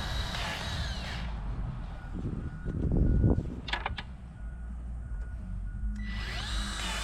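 Compact diesel machine's engine running steadily, with a brief louder rumble about three seconds in and a few sharp clicks just after.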